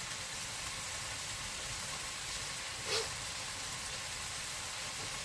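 Food that went on frozen sizzling steadily as it cooks, with one short louder sound about three seconds in.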